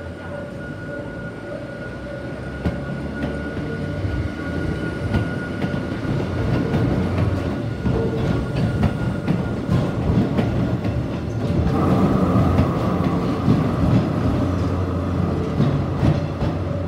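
Hakone Tozan Railway Moha 2 and Moha 1 electric cars pulling out and passing close by, the running sound growing louder. From about halfway through, the wheels clack over rail joints, and a steady high tone joins about twelve seconds in.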